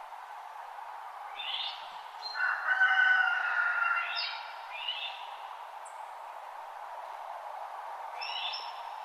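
Wild birds singing at dawn: a few short calls that sweep down in pitch and whistled notes, the loudest a cluster about two and a half to four seconds in, with another call near the end. A steady hiss runs underneath.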